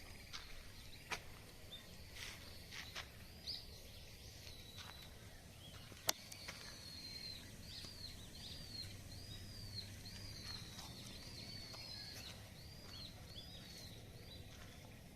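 A small bird calling over outdoor background noise: a quick series of short, high, arched chirps, about two a second, through the middle of the stretch. There are a few sharp clicks, the loudest about six seconds in.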